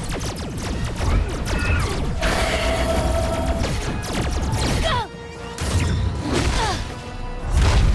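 Animated action-scene soundtrack: background music with sound effects of crashes and impacts.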